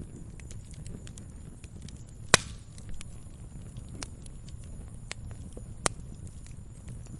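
Wood fire crackling in a fireplace: a low steady rumble of flames under scattered small snaps, with two louder sharp pops, one a little over two seconds in and another near six seconds.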